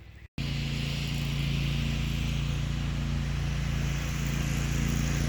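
Riding lawn mower engine running steadily. It starts abruptly at an edit.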